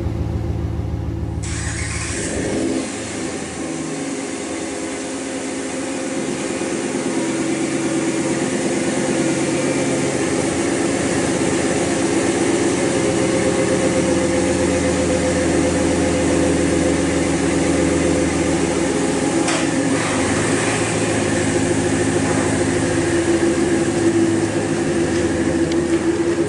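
Ram 1500's 5.7-litre Hemi V8 running steadily through a Flowmaster Super 40 muffler with the stock resonators, K&N cold-air intake fitted, a steady exhaust rumble that grows a little louder after a few seconds.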